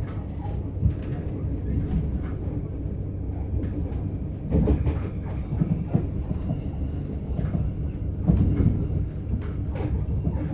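c2c Class 357 electric multiple unit running between stations, heard from inside the carriage: a steady low rumble with frequent short clicks and rattles from the wheels and bodywork.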